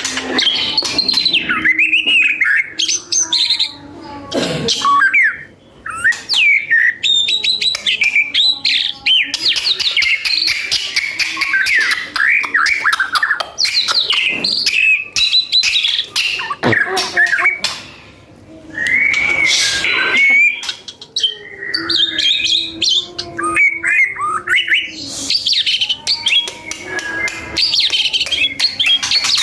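A murai songbird singing a long, varied song of whistled phrases with rising and falling notes, mixed with rapid chattering runs, pausing briefly twice.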